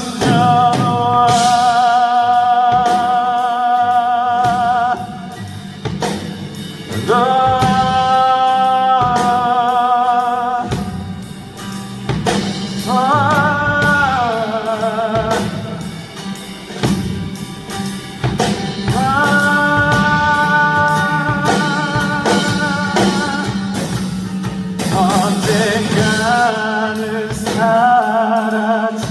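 Live pop ballad: a male singer holds long sung notes with vibrato over band accompaniment with drums and guitar, one note sliding downward about halfway through.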